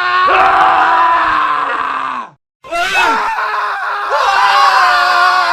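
Men screaming: a long held scream that falls in pitch and breaks off about two seconds in, then a short silence and another scream, from a montage of male screams.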